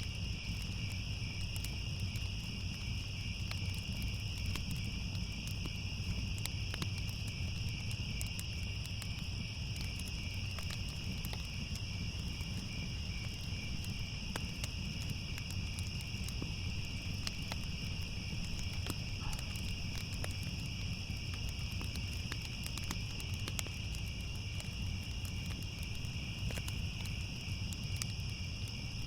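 Night chorus of crickets trilling steadily at two high pitches, over a low rumble, with scattered small crackles of a wood fire.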